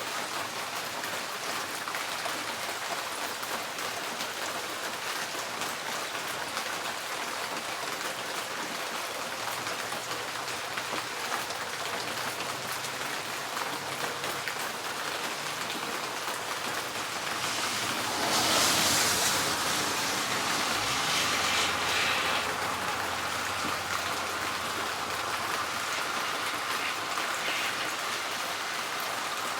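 Steady rain falling on a tin porch roof. About eighteen seconds in, a louder rushing swell lasts a few seconds, followed by a low rumble that fades out.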